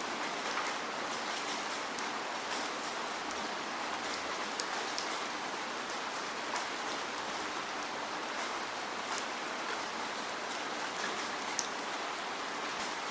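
Steady rain falling, with a continuous hiss and many individual drop ticks landing on a surface.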